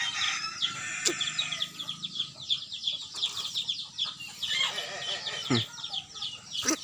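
Many birds chirping together in a dense run of quick, high chirps, with a couple of brief low calls about two-thirds of the way through.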